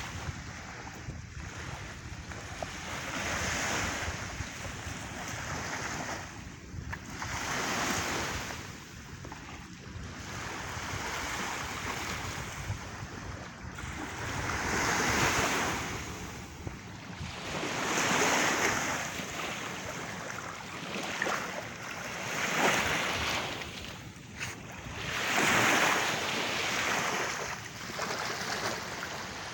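Sea surf breaking and washing up a beach, swelling and fading every few seconds, with wind buffeting the microphone.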